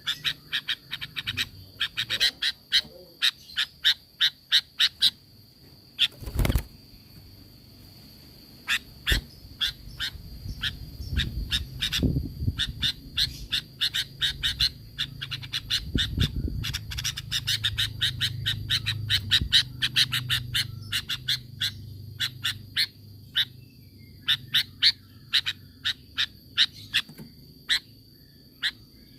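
Sooty-headed bulbul (kutilang) calling in fast runs of short, sharp notes, several a second, broken by short pauses, over a steady high-pitched whine.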